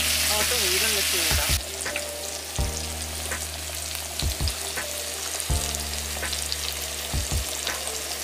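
Pork belly and green onion sizzling on a round griddle pan: a loud frying hiss for the first second and a half, then a quieter, steady sizzle, with occasional sharp clicks of tongs against the pan.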